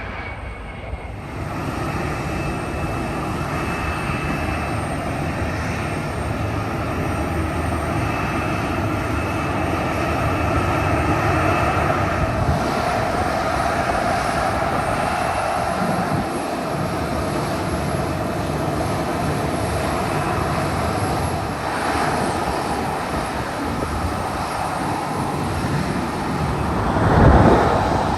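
Jet airliner engines running, a steady rushing noise with a faint whine over it, building up about a second in and holding. A brief louder swell comes near the end.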